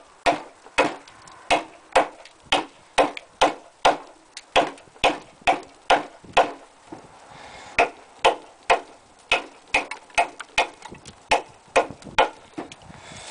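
Homemade survival knife chopping into a log of frozen green maple: a steady run of sharp, even knocks about one and a half a second, with a brief pause about halfway through.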